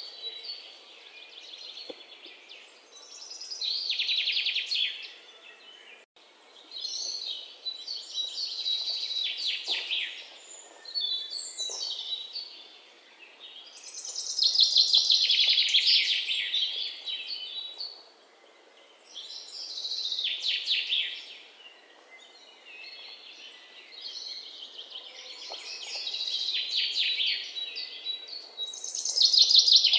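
Songbirds singing: trilled song phrases of rapid chirps, each a second or two long, repeating every few seconds, loudest about halfway through and again near the end.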